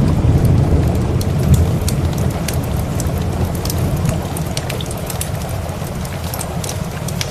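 A low thunder rumble dying away over steady rain, with a wood fire crackling in many sharp pops.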